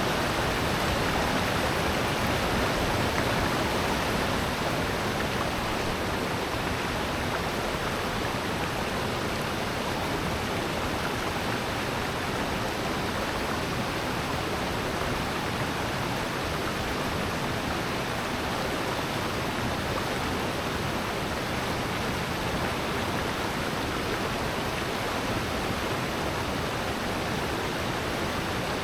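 Water rushing steadily through a rocky valley gorge, a mountain stream and waterfall making an even, unbroken rush of noise.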